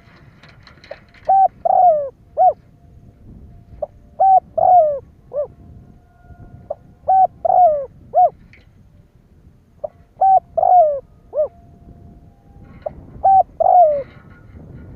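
Spotted dove cooing: a phrase of three or four short coos, the last one falling, repeated five times about every three seconds.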